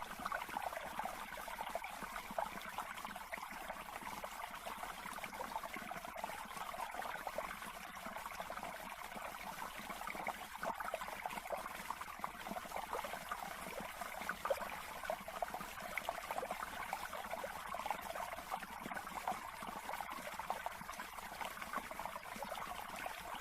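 Water trickling and babbling steadily, a continuous fine bubbling.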